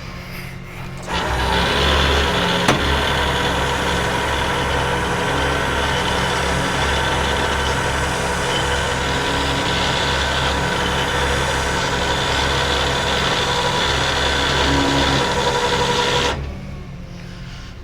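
Rollback tow truck's hydraulics running with the truck engine raised to a steady higher speed, as the bed or winch is worked to load a car. The sound comes on sharply about a second in, with one sharp click shortly after, holds steady for about fifteen seconds and drops away suddenly near the end.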